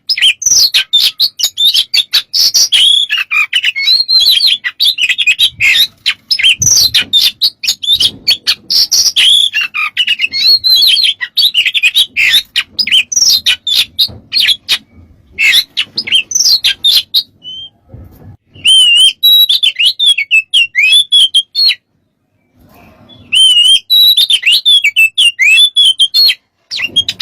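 Oriental magpie-robin (kacer) singing a loud, rapid, varied song of whistles, trills and chattering fill-in phrases. The song breaks off twice, once about two-thirds of the way through and again shortly after.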